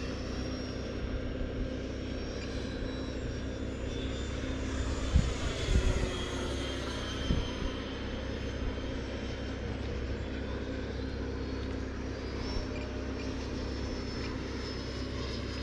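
Radio-controlled model jets flying in formation: a steady jet whine with high whistling tones that fall and rise as the planes pass by in the middle. A few low thumps about five to six seconds in.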